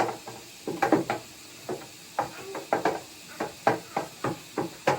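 Irregular wet squelches and gurgles, about two a second, as a clogged humidifier drain hose full of white vinegar is squeezed by hand to work loose a mineral-crust plug.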